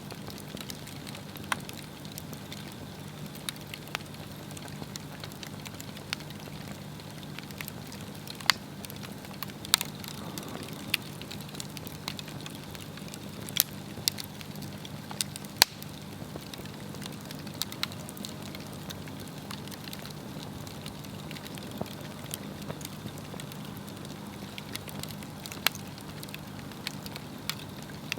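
Swedish torch log fire burning, with a steady low rush of flame and irregular sharp pops and crackles from the burning wood.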